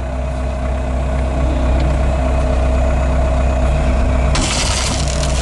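A heavy machine's engine running steadily with a low hum. About four and a half seconds in, a loud rushing hiss starts on top of it.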